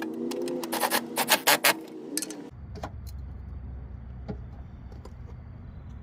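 A handheld power tool's motor whirring with sharp clicks, running down the smaller motor-mount bracket bolts, stopping abruptly about two and a half seconds in. After that a low steady hum with a few faint ticks.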